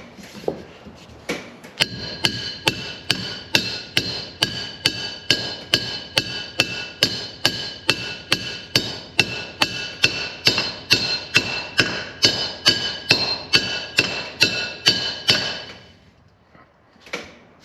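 Steady hammer blows on a steel driver, tapping a part down onto a mower's PTO shaft: about two blows a second for some thirteen seconds, each with a metallic ring. The part is moving only a little at a time along the shaft.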